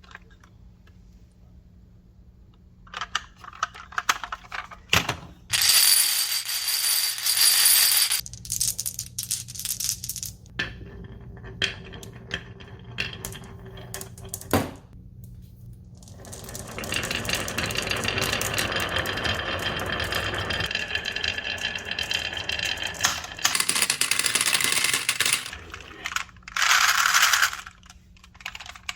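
Marbles rolling and rattling along a rain-gutter and wooden-rail marble run, with clicks and clacks as they drop and hit the track. The rolling comes in several separate stretches of a few seconds each, the longest about two thirds of the way in, with a faint ringing from the gutter.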